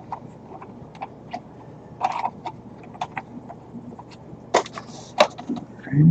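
Scattered light clicks and taps of small electronic parts, jumper wires and pin-header connectors, being handled on a workbench. Two sharper clicks come about four and a half and five seconds in.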